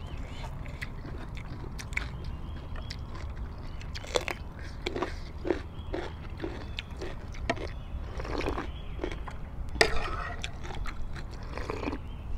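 Close-miked biting and chewing of crisp raw cucumber: short crunchy bites, then steady chewing about twice a second, with a louder crunch toward the end.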